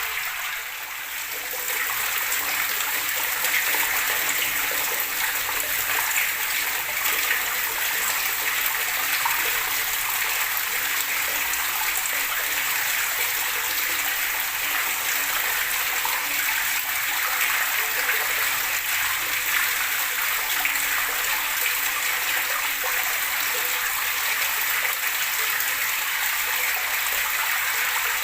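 Running water gurgling and splashing steadily, dipping briefly about a second in.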